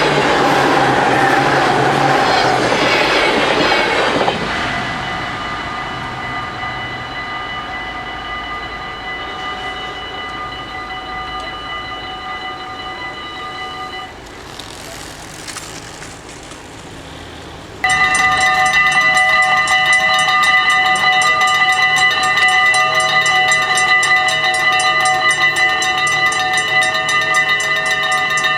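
A train rumbles over the level crossing for the first few seconds, then the crossing's electric warning bells keep ringing. The bells fade and break off about halfway through, then start again loudly with fast, rapid strikes for the rest of the time.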